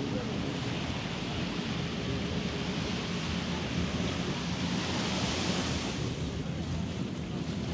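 Sea waves washing onto the beach, with a wave breaking and swelling to a louder wash about five seconds in.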